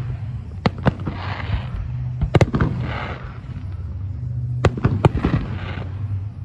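Fireworks display: aerial shells bursting with sharp bangs, about four in a few seconds, each followed by a spreading crackle.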